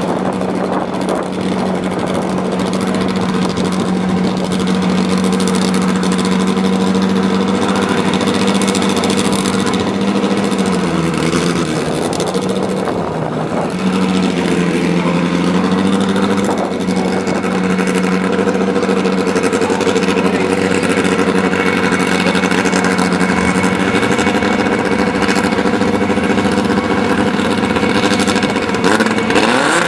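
Drag racing car's engine running at a steady idle, its note sagging and wavering briefly about eleven to thirteen seconds in, then starting to rev up right at the end.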